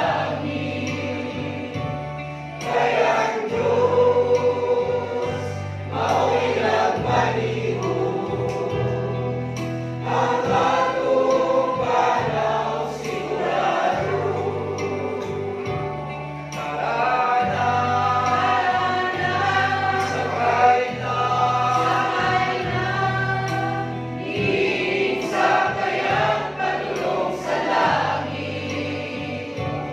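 A choir singing a gospel song over an instrumental backing with a steady bass line.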